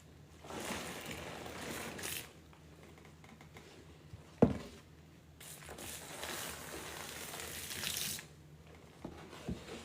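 A soapy sponge being squeezed twice, each squeeze a couple of seconds of crackling, squishing wet noise, with one sharp knock between them.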